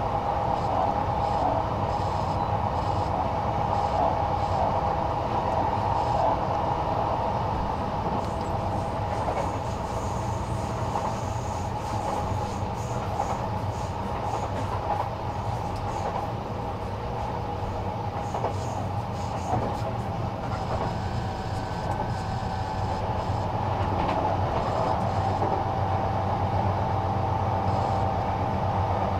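Sotetsu Series 20000 electric train running steadily, heard from inside the car: a continuous rumble of wheels on rail with a constant hum.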